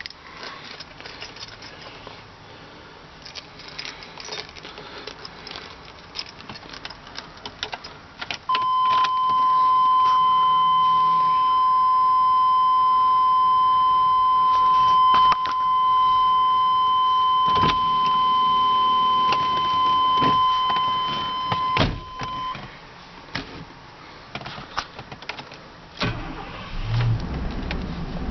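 Keys jangling and clicking, then a steady high warning tone from the 1997 Chevrolet Suburban's dash for about fourteen seconds, with a couple of sharp clicks. Near the end the engine cranks, starts and runs at idle.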